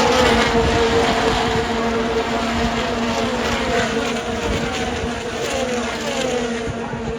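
IndyCar race cars' 2.2-litre twin-turbo V6 engines going past at full throttle in a pack. Several engines drop in pitch one after another as each car goes by, over a steady drone of engines.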